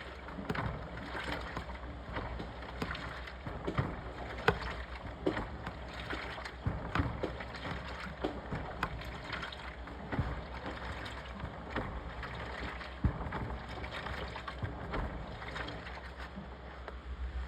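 Washing machine running: water sloshing in the drum with irregular knocks, over a steady low motor hum.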